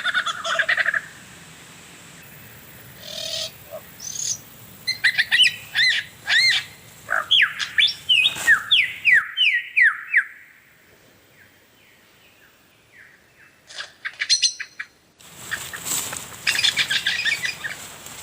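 Birds calling in forest: a fast rattling trill, then a run of quick, sweeping whistled notes, a quieter pause, a few sharp clicks, and another rattling trill near the end.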